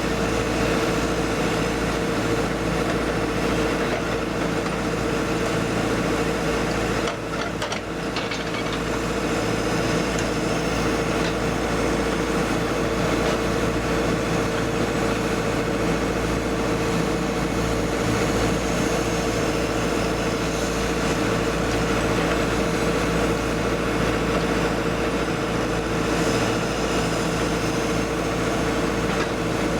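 Hyundai 140LC-7A excavator running steadily at work, its diesel engine carrying a constant high tone throughout. The sound dips briefly about seven seconds in.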